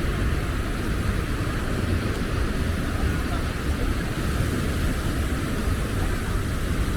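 Steady wind rumbling on the camera microphone over the constant rush of beach surroundings, with no single event standing out.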